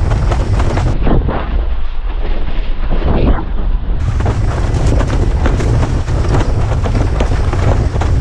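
Wind buffeting a head-mounted GoPro's microphone while windsurfing at speed: a loud, steady low rumble, with the hiss and slap of water from the board's run over the chop.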